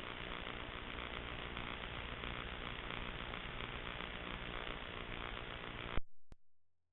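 Steady electrical static hiss with a low hum, recorded through a sewer inspection camera system, cutting off abruptly about six seconds in.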